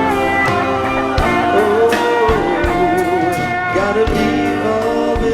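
Live band music: guitar accompaniment under held notes that waver with vibrato.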